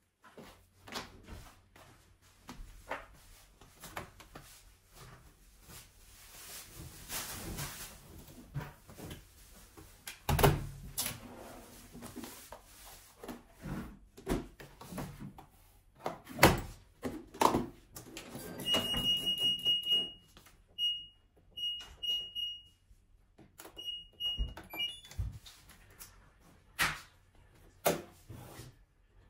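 Household handling noises, a string of clicks, knocks and rustles, and, about two-thirds of the way in, an electronic appliance beeping: one long beep followed by several short ones.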